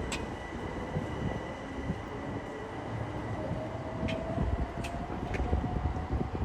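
Electric train running past on the line: a steady rumble with a faint whine that rises slightly about halfway through, and a few sharp clicks near the end.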